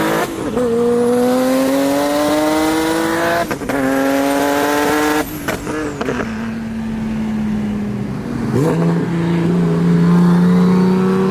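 Modified Nissan 370Z's VQ V6 accelerating hard, its pitch climbing through the gears with quick upshifts about three and a half and five seconds in. After that it holds a steady drone, dropping a step in pitch near nine seconds.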